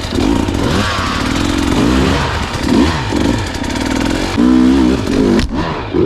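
Husqvarna enduro dirt bike engine revving up and falling back again and again, about once a second, as the throttle is worked over rough trail. A constant rushing noise runs under it.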